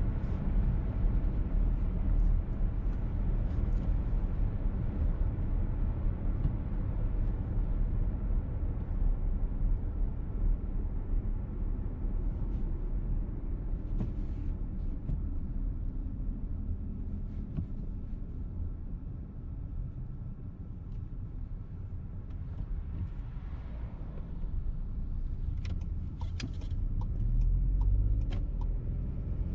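Petrol VW T-Roc driving, heard from inside the cabin: steady engine and road noise. It eases off for a few seconds past the middle and picks up again near the end.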